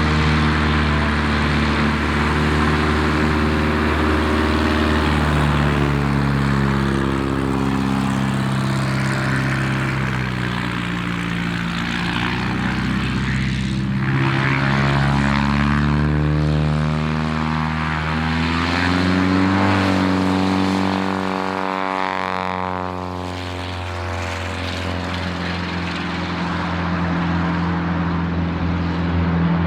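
Propeller airplane engine running continuously, its pitch sliding slowly down and back up several times.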